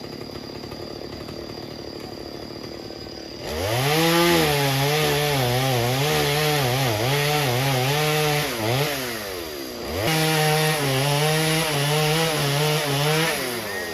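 Two-stroke chainsaw opened up to full throttle and cutting wood, its high engine note wavering as the chain bogs and recovers under load. It eases off briefly about two-thirds of the way through, goes back to full revs, and drops away near the end.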